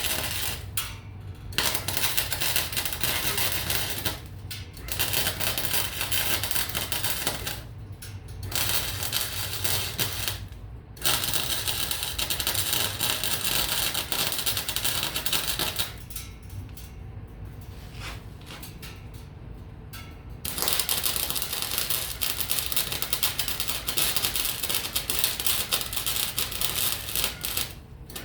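Electric arc welding on steel: a dense crackling sizzle in runs of a few seconds, broken by short pauses as the arc is struck and stopped, with a quieter stretch in the middle.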